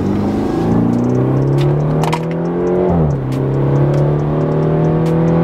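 BMW 330i's B48 turbocharged four-cylinder engine under hard acceleration, heard from inside the cabin. The revs climb steadily, drop with an upshift about three seconds in, then pull on in the next gear. The engine is fitted with a new larger-diameter aluminium charge pipe.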